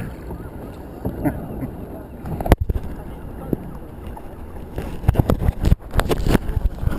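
Wind buffeting the microphone on a kayak, with one sharp knock about two and a half seconds in and a cluster of bumps and knocks near the end.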